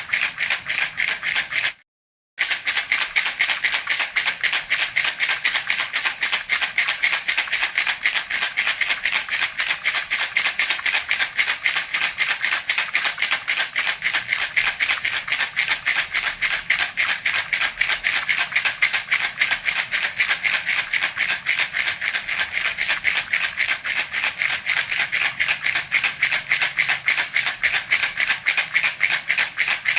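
Baby's rattle (jhunjhuna) shaken steadily in a fast, even rhythm. There is a break of about half a second near two seconds in.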